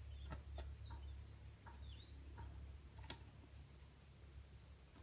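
Faint birdsong: a few short, rising-and-falling chirps in the first two seconds, with several sharp clicks, the loudest about three seconds in, over a steady low hum.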